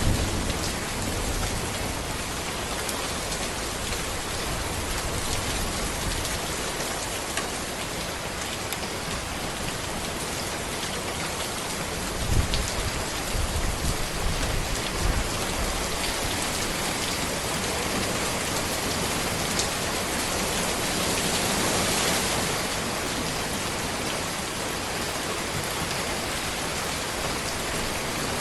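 Steady heavy rain falling on a road and trees, an even dense hiss, with a few brief low rumbles near the middle.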